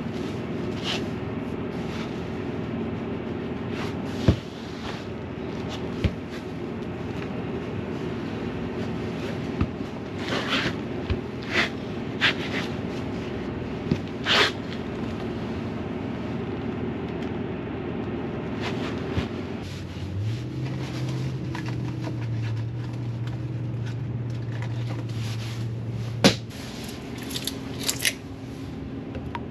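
Scattered knocks and clicks over a steady mechanical hum. About twenty seconds in, the hum gives way to a lower steady drone that starts with a short rise and stops about six seconds later.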